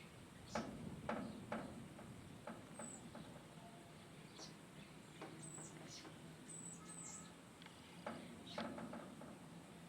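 Small birds chirping faintly: short, very high chirps repeated at irregular intervals, among a handful of sharp clicks.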